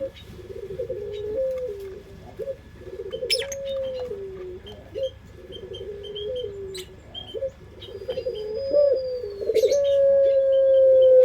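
Puter pelung dove cooing in repeated rolling phrases that step down in pitch, ending in one long drawn-out coo near the end. Faint chirps from small birds sound above it.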